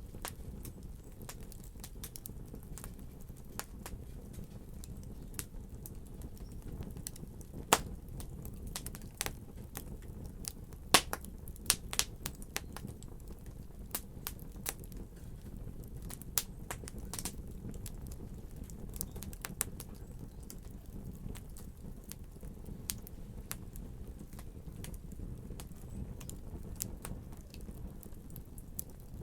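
Wood fire in a fireplace crackling, with scattered sharp pops over a steady low rumble of the flames. The loudest pops come about eight seconds in and in a cluster around eleven to twelve seconds.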